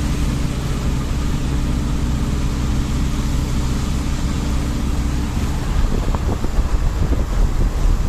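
A road vehicle driving along, with steady engine hum and tyre and road noise. About five and a half seconds in, the hum's steady note fades and a heavier low rumble takes over.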